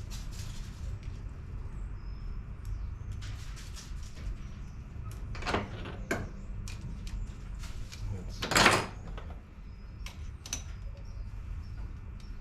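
Light rustling and scraping with scattered small clicks, like leaves moving, from a bird trapped in a garage scurrying about, with two louder scrapes about halfway through and about two-thirds of the way through. A few faint high chirps sit over a steady low hum.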